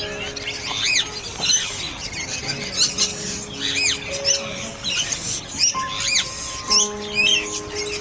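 Birds chirping in a quick, repeated series of short high arching calls, over background music with long held notes.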